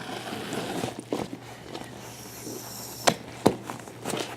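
Hands handling a faux-leather cat carrier, with rustling and then two sharp taps or knocks about half a second apart near the end.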